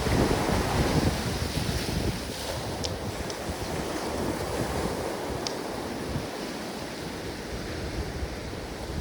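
Ocean surf washing up the shore, louder at first and then settling into a steady wash, with wind buffeting the microphone.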